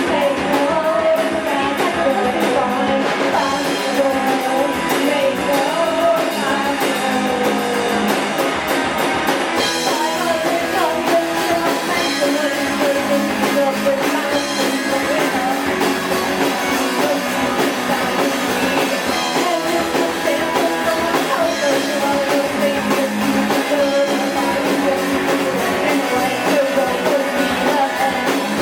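Live rock and roll band playing: electric guitars and a drum kit under a singing voice. The cymbals fill in and get busier from about ten seconds in.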